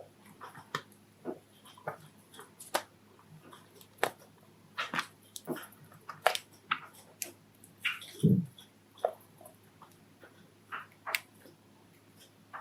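Pet Java sparrows with scattered short, sharp chirps and clicks at irregular intervals, and one dull thump about eight seconds in.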